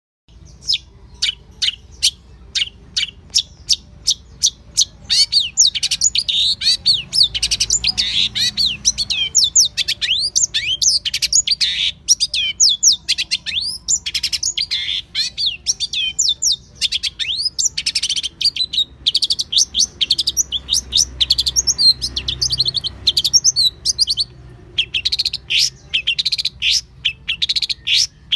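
Recorded songbird song used as masteran training audio: a rapid series of sharp, high-pitched chirps about three a second, then denser fast notes and rattling runs from about five seconds in, with a short pause near the end before another burst.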